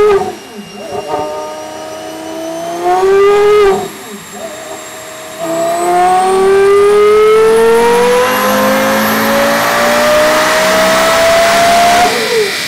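Porsche Carrera GT's 5.7-litre V10 on its stock exhaust, run on a chassis dyno. A rev falls away at the start, then a rev climbs for about three seconds and drops off. A long full-throttle pull follows, rising steadily in pitch for about six seconds before the throttle is lifted near the end.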